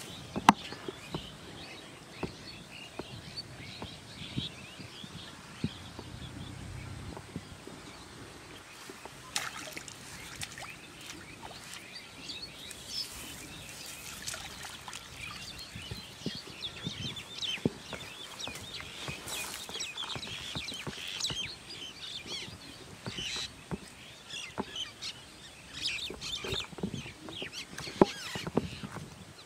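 Birds chirping and calling repeatedly, with scattered small clicks and rustles over a low outdoor hiss.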